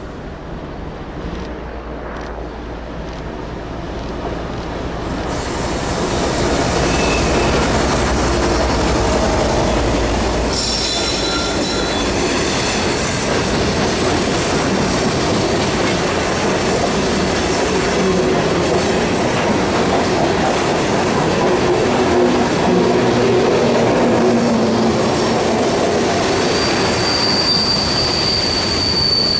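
A CN grain train passing close by: the rail cars' steel wheels roll and clack over the rails, growing louder over the first six seconds and then holding steady. High-pitched flange squeal comes in about eleven seconds in and again as a long steady squeal near the end.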